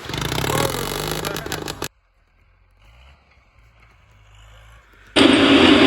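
A short burst of scraping noise, then a pause, then the steady drone of the army truck's diesel engine cutting in abruptly about five seconds in.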